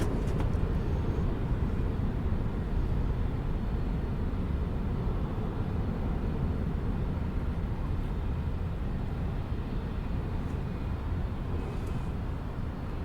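Boeing 737-900 jet engines at takeoff thrust, a steady rumble that slowly fades as the airliner climbs away.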